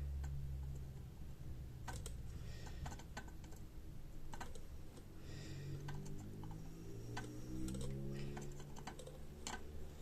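Light, irregular clicks and taps of a soldering iron, tools and small parts being handled on a workbench while soldering header pins onto a circuit board, with a few brief hisses between them.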